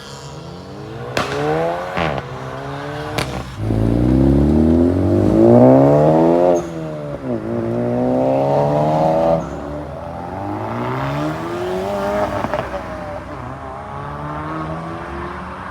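Tuned car engines revving up and falling back several times, the loudest rev about four to seven seconds in. A few sharp exhaust pops come in the first three seconds.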